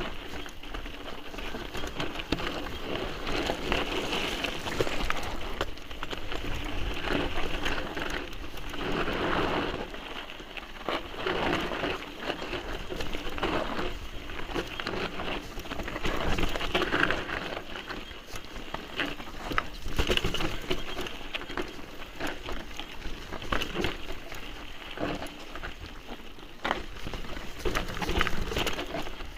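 Mountain bike riding over a rocky, gravelly trail: a continuous crackling clatter of tyres on loose stones, with the bike rattling over the bumps.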